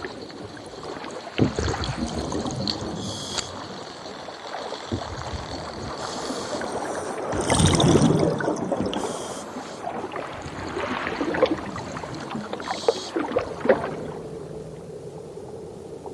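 Underwater ambience: gurgling, bubbling water with scattered sharp clicks and short hissing bursts, swelling louder about eight seconds in.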